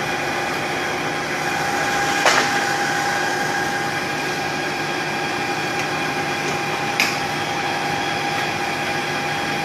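Machine tool running steadily with a constant hum and whine, with two sharp clicks, one about two seconds in and one about seven seconds in.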